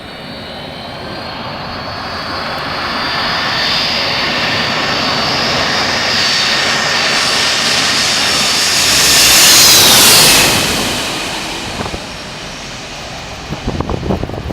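Jet airliner passing low overhead: the engine whine grows steadily louder, peaks about ten seconds in, then drops in pitch and fades as the plane goes by. Wind buffets the microphone near the end.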